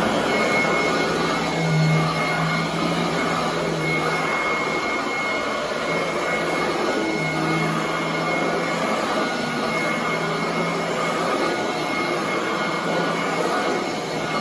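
Royal commercial vacuum cleaner running steadily on carpet, its motor hum swelling and easing slightly as it is pushed back and forth, with a faint high whine over it.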